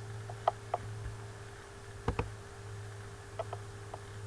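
Scattered sharp clicks at a computer, some in quick pairs, over a steady low electrical hum.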